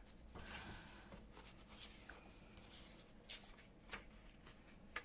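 Faint rustling of paper pages being handled, with a few light taps about three and four seconds in.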